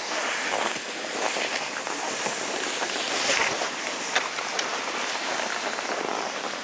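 Cross-country skis gliding over snow: a steady swishing hiss, with a few faint clicks in the second half.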